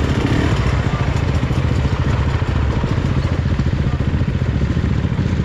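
Trail motorcycle engine running steadily at an even, moderate pace, with a rapid, regular firing pulse.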